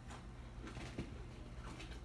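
Faint chewing and mouth sounds from eating fried chicken, with a couple of soft clicks, over a steady low hum.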